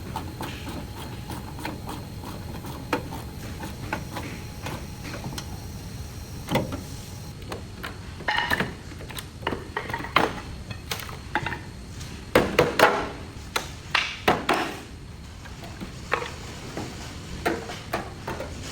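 Irregular knocks and clanks of hand tools on a car body during collision repair, scattered at first, with a run of louder knocks about twelve to fifteen seconds in, over a steady low workshop hum.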